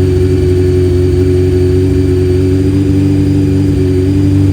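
1997 Honda Fireblade CBR900RR's carburetted inline-four engine idling steadily at an even pitch, freshly revived and still cold.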